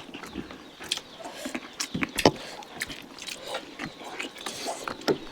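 Close-up eating sounds: irregular wet chewing and lip-smacking of chicken curry, with sharp clicks and one loud smack about two seconds in.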